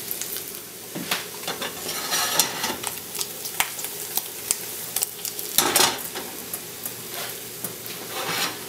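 Spam slices sizzling in butter in a non-stick frying pan, a steady hiss with scattered crackles and pops. There is a louder burst of noise about two-thirds of the way through, as the pan is shifted on the electric burner.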